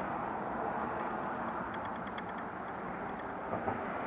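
Steady background noise with no clear rhythm or pitch, with a few faint ticks around two seconds in and a small knock about three and a half seconds in.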